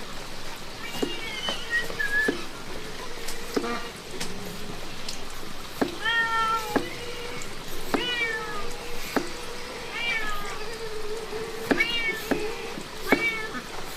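A hungry cat meowing over and over, one short call about every two seconds. Sharp clicks and taps sound between the meows.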